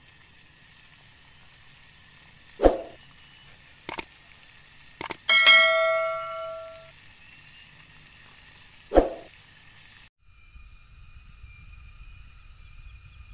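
Edited intro sound effects over a steady hiss: two heavy thuds, sharp clicks, and a metallic bell-like chime that rings and fades over about a second and a half. About ten seconds in, the sound cuts abruptly to a steady high-pitched drone over a low rumble.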